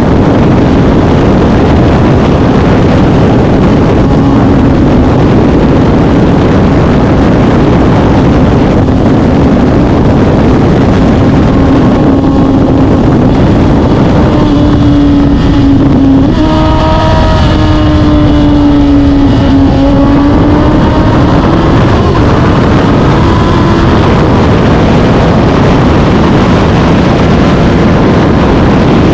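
Suzuki GSX-R1000 K8's inline-four engine running at steady cruising revs under heavy wind rush on the microphone. The engine note rises and falls gently mid-way, with a brief break and a step up in pitch about sixteen seconds in.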